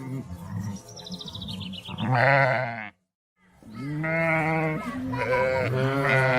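Sheep bleating. A loud, quavering bleat comes about two seconds in and cuts off suddenly into a moment of silence, followed by long, wavering bleats.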